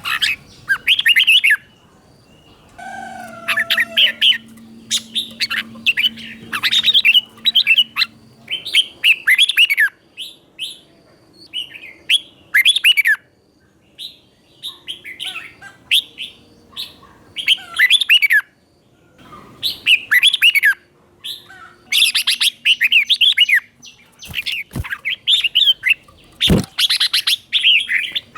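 Red-whiskered bulbul singing in quick, clear warbled phrases, bout after bout with short pauses between. This is the doubled 'berl' song style that Thai keepers play to young birds for them to copy.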